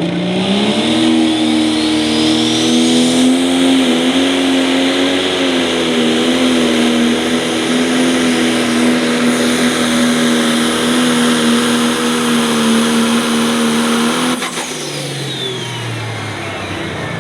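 Pro stock pulling tractor's turbocharged diesel engine revving up at the start of a pull and held at high revs for about fourteen seconds, with a rising turbo whistle. The throttle then comes off and the engine and turbo whine wind down.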